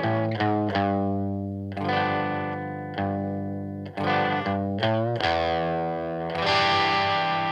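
Electric guitar played through an Aion FX Corona overdrive pedal, a DIY copy of the Boss OD-1: a run of mildly distorted chords, each struck and left to ring out. The last chord, near the end, is brighter and sustains longer.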